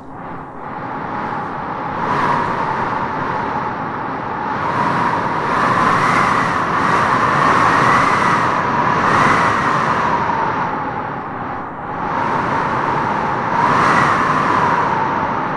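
Wind blowing in slow gusts, swelling and easing every few seconds, with a faint whistling tone that rises at the strongest gusts.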